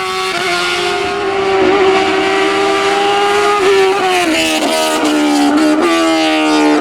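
Competition car's engine running hard at high revs on a hillclimb. The pitch holds fairly steady, then dips and jumps back several times between about four and six seconds in, like quick gear changes or lifts of the throttle.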